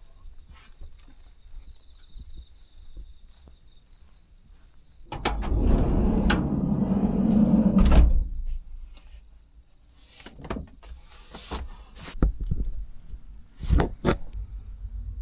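A van's sliding door rolling along its track for about three seconds and stopping with a thud, followed by scattered knocks and clicks. Faint insect chirring is heard before it.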